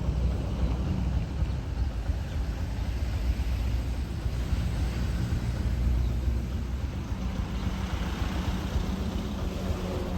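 Steady low rumble of a moving vehicle, with a fainter hiss above it.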